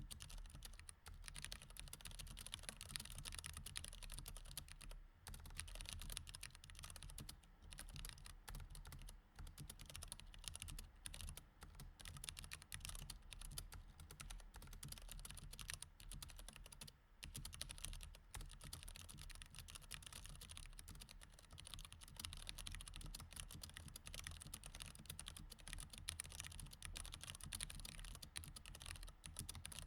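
Continuous typing on a mechanical keyboard with Cherry MX Red switches: a dense, uneven stream of key clacks, with brief pauses about five seconds in and again near seventeen seconds.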